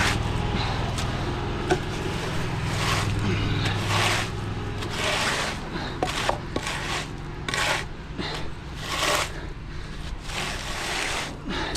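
Tool scraping through concrete in repeated short strokes, with a few sharp clicks. An engine runs steadily under it and fades out about five seconds in.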